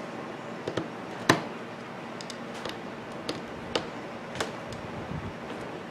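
Scattered light clicks and taps of hand tools on the metal gear housing of an angle grinder as its gear-housing screws are worked on, with one sharper knock about a second and a half in.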